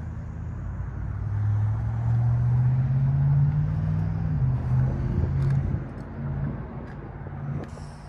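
Cummins 5.9-litre inline-six turbo diesel of a 2000 Dodge Ram 2500 running, revved up about a second in, held higher for a few seconds, then dropping back toward idle about five seconds in.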